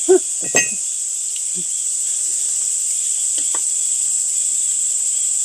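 Steady high-pitched chorus of insects such as crickets, running evenly throughout, with a couple of brief voice sounds near the start.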